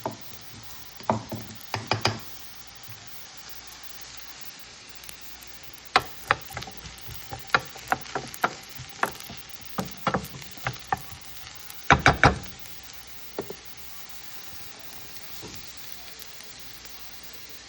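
Garlic and onion sizzling in oil in a pan, with a spatula knocking and scraping against the pan in spells of stirring; the loudest knocks come about twelve seconds in.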